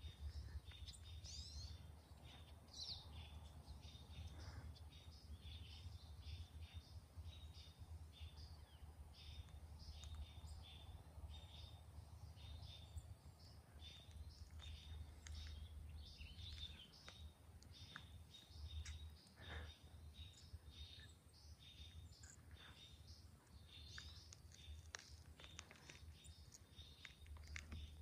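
Faint songbirds chirping in the trees: many short, high calls, scattered all through, over a steady low rumble.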